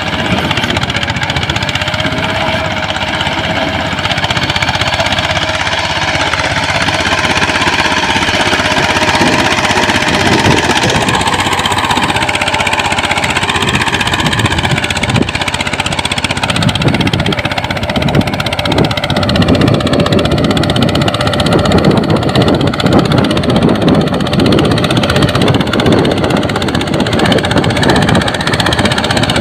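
Mini tractor engine running, a loud, rapid, knocking clatter whose pitch wavers now and then.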